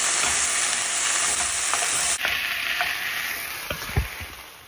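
Okra and potatoes frying in oil in a pan, a steady sizzle, with a wooden spatula stirring and scraping through them in small clicks. One knock about four seconds in, then the sizzle fades away.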